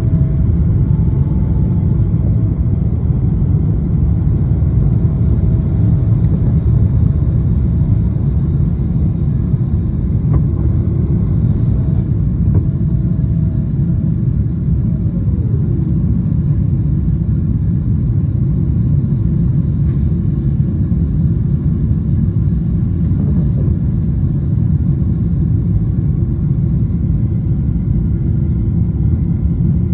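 Airliner cabin noise during takeoff: a loud, steady low rumble of jet engines and rolling or airflow. A thin tone over it stops about halfway and then slides down in pitch.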